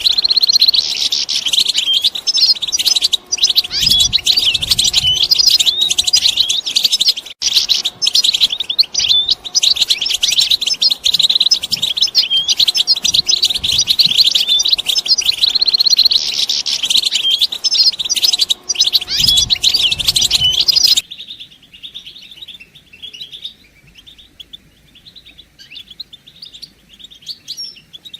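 A flock of European goldfinches twittering with dense, overlapping call notes. About three-quarters of the way through it stops abruptly, leaving only a few faint scattered calls.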